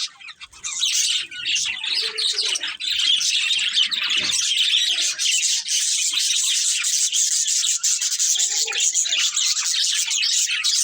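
Budgerigars chirping and chattering in a dense, continuous stream of quick high chirps, picking up after a brief lull about a second in.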